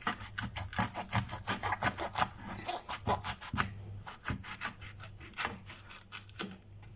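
Kitchen knife sawing lengthwise through a bitter melon (ampalaya) on a wooden chopping board, in quick rasping strokes, several a second. There is a short lull about four seconds in, and the strokes thin out near the end.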